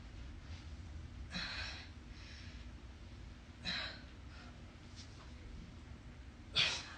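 A woman breathing hard while exercising: three forceful exhalations about two and a half to three seconds apart, each followed by a softer breath.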